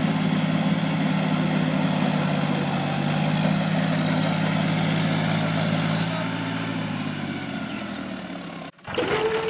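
Mini tractor's engine running steadily at idle, fading away over the last few seconds, then cutting off suddenly near the end, where a steady single tone begins.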